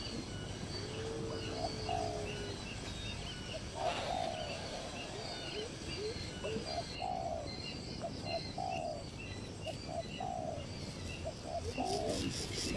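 Several wild birds calling. A short call near 600–900 Hz repeats about once a second, with a long low drawn-out note near 400–500 Hz early on and again near the end, and faint high chirps behind.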